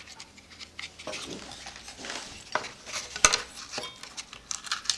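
Small clicks, taps and rustling from handling and taking apart a cuckoo clock bellows, with a sharp click about three seconds in.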